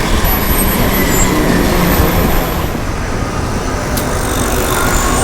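Steady rush of wind and road noise while riding an e-bike through city streets, with a low rumble; it eases a little about halfway through.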